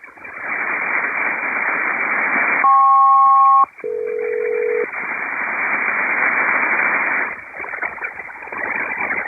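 HF single-sideband radio hiss, then a SELCAL call: two higher tones sounded together for about a second, a short gap, then two lower tones together for about a second, the ground station sending the aircraft's selective-calling code for a SELCAL check. The hiss carries on and drops lower near the end.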